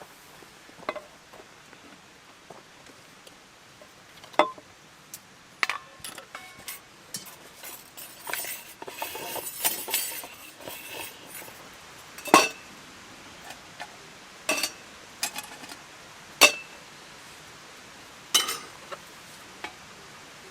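Metal camp cookware and utensils being handled: a string of separate clinks and knocks at uneven intervals, with a stretch of scraping and rattling in the middle.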